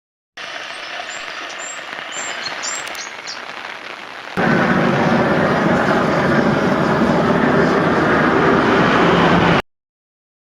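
Steady outdoor hiss with a few short, high bird chirps. About four seconds in, a sudden cut to a much louder, steady rush of fast-flowing river water, which stops abruptly near the end.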